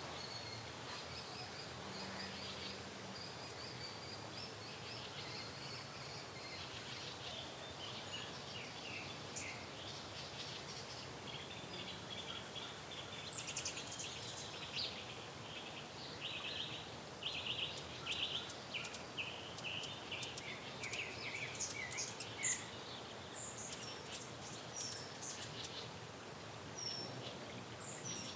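Small birds chirping and trilling over a faint steady hiss, the calls growing busier and louder about halfway through.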